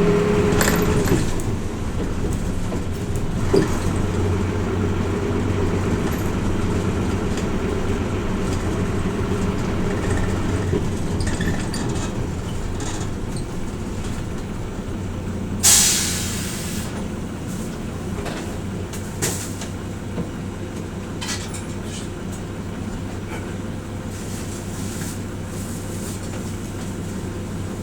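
Hino Rainbow RJ (P-RJ172BA) route bus heard from inside the cabin: its diesel engine runs under the steady drone of driving, with the engine note falling about a second in. About sixteen seconds in comes a short, sharp hiss of released air, and a few light clicks and rattles follow.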